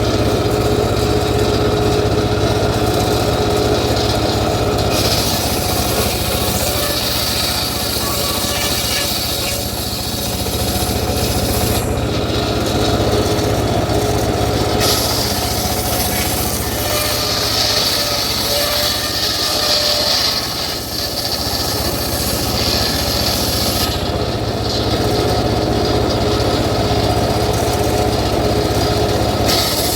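Engine-driven homemade circular sawmill running steadily, its engine giving a constant low hum. The saw's cutting noise grows louder and brighter as the blade works through teak, in two long passes of about ten and eight seconds.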